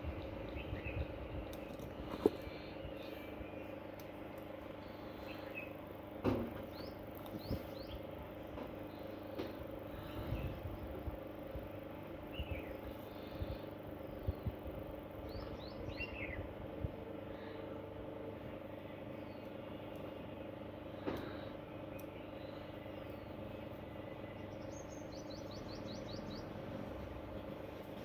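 Outdoor background: small birds chirping now and then, with a quick run of chirps near the end, over a steady hum and distant traffic. There are a few sharp knocks, the loudest about six seconds in.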